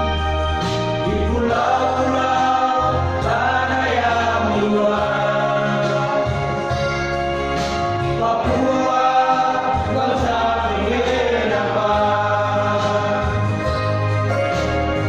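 Vocal group singing a gospel song in several-part harmony, in long held phrases over steady low bass notes.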